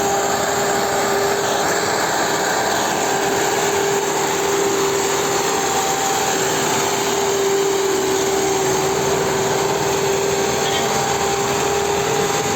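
HMT tractor's diesel engine running steadily under a heavy load, with a constant whine over the engine noise.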